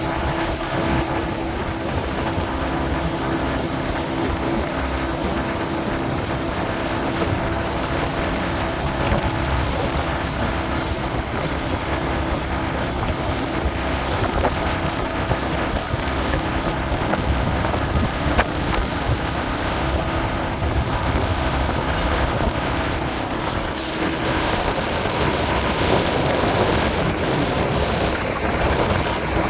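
Boat motor running steadily under way, its hum mixed with wind buffeting the microphone and water noise from a choppy lake. The motor's steady tone drops away a few seconds before the end, leaving wind and water.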